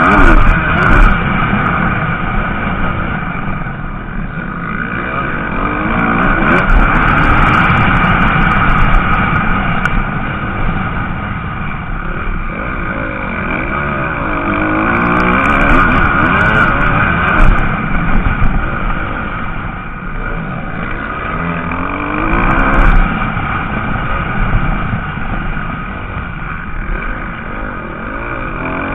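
MX2 motocross bikes racing, their engines revving up and down in pitch as riders work the throttle. The sound swells and fades several times as bikes come close and move away.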